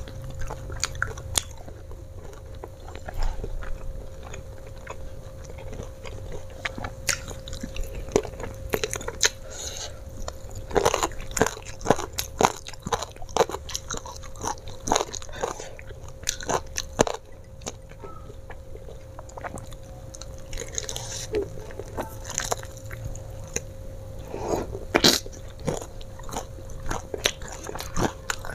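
Close-up chewing and crunching of crispy flour-battered fried chicken, with sharp, irregular bites and crunches that come thicker in the second half.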